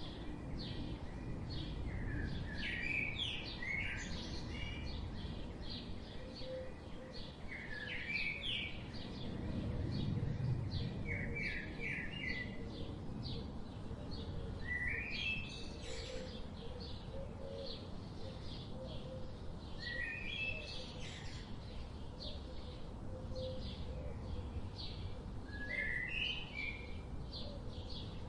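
Several songbirds chirping: many faint quick chirps throughout, with a clearer short, rising-and-falling phrase repeated every few seconds. A steady low rumble runs beneath them.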